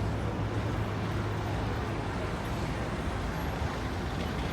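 City street ambience: a steady low rumble and hiss of wind and road traffic, with faint crowd voices underneath.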